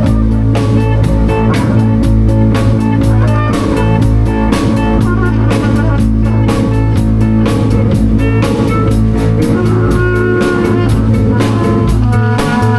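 Live improvised band jam with guitar over a drum kit keeping a steady beat, in a bluesy rock style.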